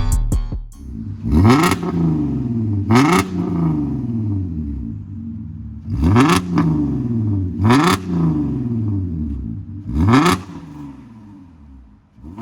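Porsche Cayenne 3.2 VR6 engine revved through its tuned exhaust in five quick blips, each rising sharply and falling back slowly toward idle.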